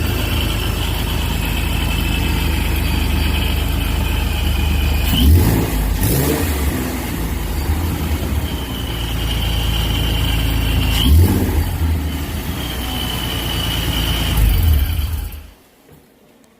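Supercharged Ford 3.7 L V6 in a Mustang idling smoothly, with a high whine over the engine. It is revved briefly twice, about five and eleven seconds in, and then switched off near the end.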